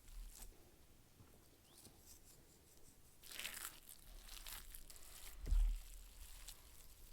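Faint crinkling and tearing of packaging or paper being handled, with a few scattered rustles and a longer crinkly burst about three seconds in. A single soft, low thud comes about five and a half seconds in, the loudest sound here.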